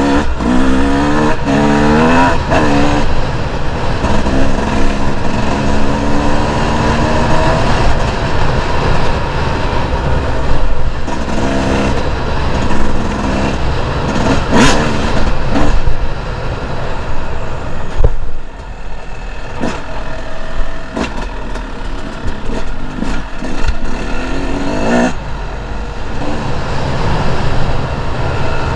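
Two-stroke enduro dirt bike engine revving up and falling off again and again as it rides, with a low rumble and scattered knocks beneath. The engine eases off briefly past the middle, then pulls again.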